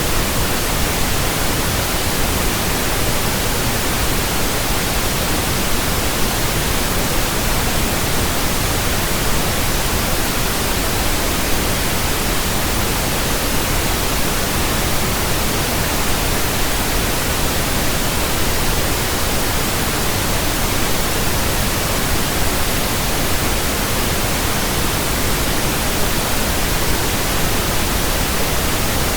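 Steady, unbroken pink noise from a signal generator, an even hiss across the whole range, played as a burn-in signal for new speakers and earphones.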